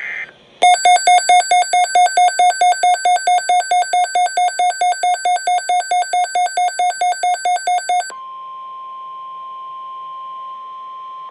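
Emergency weather-radio alert tones. A rapid string of buzzy electronic beeps, about four or five a second, runs for about seven seconds. Then it switches to one steady, high tone, the NOAA Weather Radio warning alarm tone, for the last three seconds.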